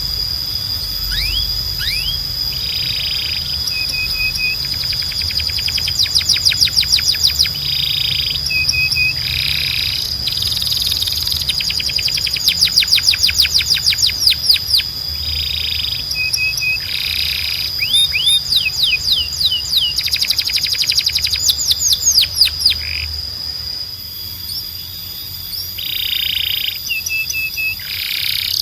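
Domestic canary singing: several long trills of fast rising notes, with short repeated phrases between them and a steady high tone underneath.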